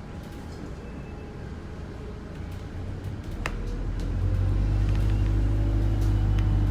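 A London bus's engine rumbling, heard from inside the bus, growing louder and steadier about halfway through, with a single sharp click just before.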